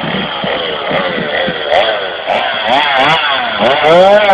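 Chainsaw engine being revved over and over, its pitch rising and falling about twice a second, then settling into a steadier lower note near the end.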